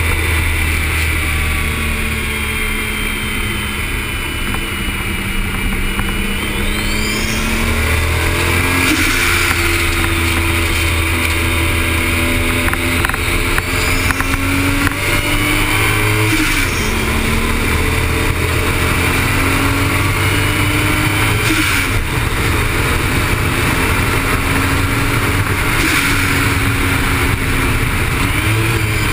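Toyota Supra engine under hard acceleration on a racetrack, its pitch climbing through each gear and dropping at the shifts several times, over a steady low rumble of wind and road noise.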